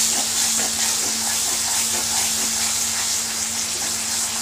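Ground onion-tomato masala paste sizzling steadily in hot oil in a kadhai while a spatula stirs it, with light irregular scraping against the pan.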